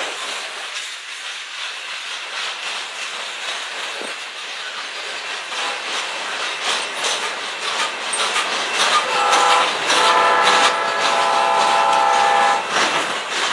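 Train running with a continuous clatter of wheels on rail joints; in the last few seconds a multi-tone horn sounds a short blast, then a longer one.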